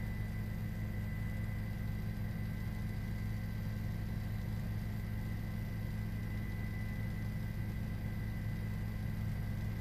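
Steady, unchanging engine drone inside a police vehicle, a low hum with faint high whining tones above it.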